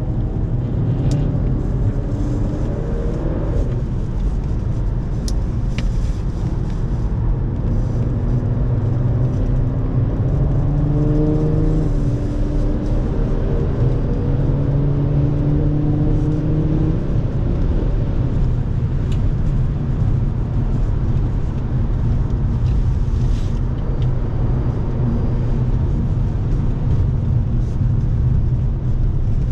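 Audi car at speed on a race track, heard from inside the cabin: the engine note climbs as the car accelerates, rising twice through the middle of the clip, over a steady rumble of road and wind noise.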